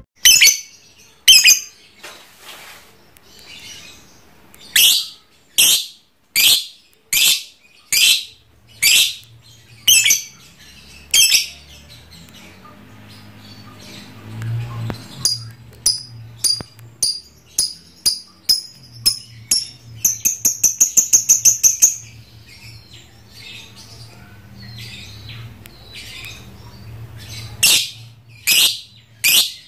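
Trondol lovebird calling: loud, shrill chirps about once a second, speeding up, then a fast rattling run of calls lasting about two seconds, the chattering 'ngekek' song that lovebird keepers prize.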